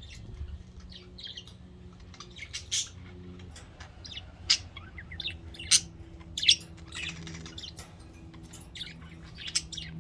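Pet budgerigars chirping and chattering, with short sharp calls scattered throughout and a few louder squawks in the middle.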